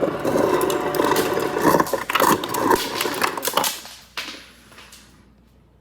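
Refrigerator door ice dispenser set to cubed, its motor running as ice cubes clatter out for almost four seconds before stopping, followed by a single click.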